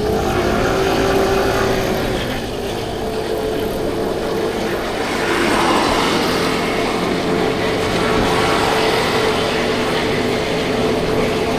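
50cc motorbike engine running as it rides along, with road and traffic noise around it. Its pitch bends over the first couple of seconds, then holds as a steady hum.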